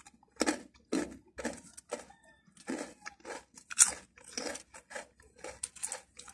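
Mouth chewing Patata potato snack close to the microphone: crisp crunching, about two crunches a second, with one louder crunch a little past the middle.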